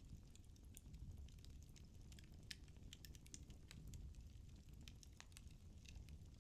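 Firewood burning in a fireplace, crackling faintly with frequent small, irregular snaps over a low, steady rumble.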